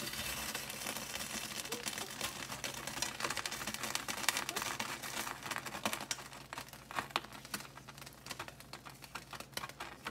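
Oyster mushrooms sizzling and crackling in hot oil in a frying pan as they are stir-fried with wooden chopsticks, with many quick pops through the sizzle. The sizzle starts loud as the mushrooms go in and eases a little toward the end.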